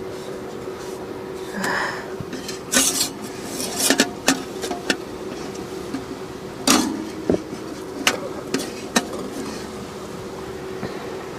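A series of sharp knocks and clinks of things being handled, with a clatter of dishes and utensils, over a steady hum.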